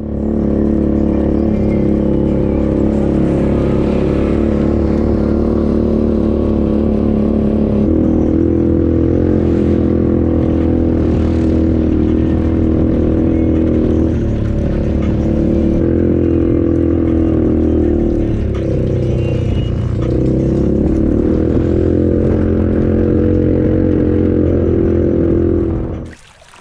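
Polaris RZR 570 side-by-side's single-cylinder engine running loud through a Big Gun Eco Series slip-on exhaust, close to a straight pipe, with the pitch shifting as the throttle changes: up about eight seconds in, again around fourteen seconds, a dip and rise around twenty seconds. It cuts off suddenly near the end.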